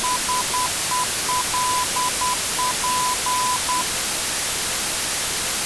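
Loud steady static hiss, with a single tone of about 1 kHz beeping on and off in an uneven run of short and long beeps that stops a little under four seconds in.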